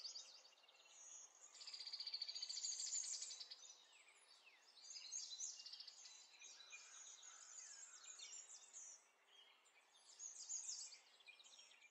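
Faint birdsong: small birds chirping and trilling in quick high phrases, with a rapid trill loudest about two to three seconds in.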